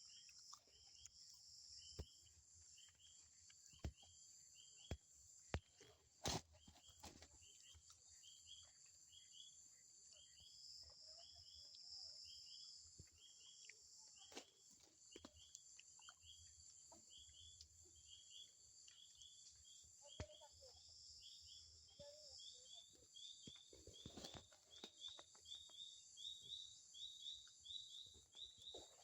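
Faint forest ambience: a steady high-pitched insect drone, with a repeated short chirping call that quickens from about one a second to two or more near the end, and scattered light clicks.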